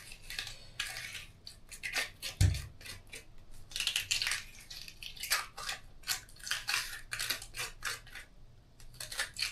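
Kitchen handling sounds as something is squeezed by hand: a run of short clicks and scrapes, with one dull knock about two and a half seconds in.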